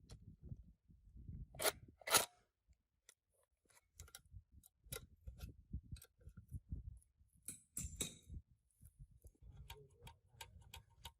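Scattered light clicks and knocks from hand tools and parts being handled on a work surface, with two sharper knocks about two seconds in and a cluster of clicks near the eight-second mark.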